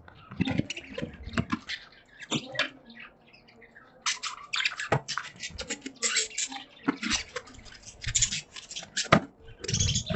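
Caged budgies chattering, a rapid irregular run of short scratchy chirps with a brief lull about three seconds in, and a few soft low knocks mixed in.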